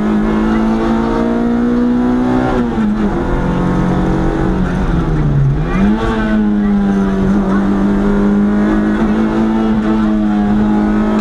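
Historic rally car engine heard from inside the cabin, driven hard up a hillclimb. Its pitch climbs slowly, drops off about two and a half seconds in and sinks to its lowest around five and a half seconds, then climbs sharply again about six seconds in and holds high.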